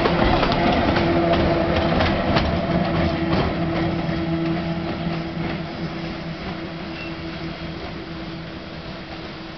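A departing steam-hauled passenger train rolling past, its wheels clacking over rail joints for the first few seconds under a steady running hum, then fading as the train draws away.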